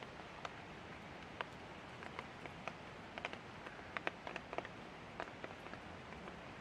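Light rain falling: a steady soft hiss with irregular drops tapping on a surface, several each second.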